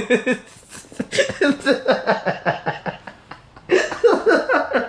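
A man laughing hard in quick repeated ha-ha bursts, in two fits with a brief pause near the middle.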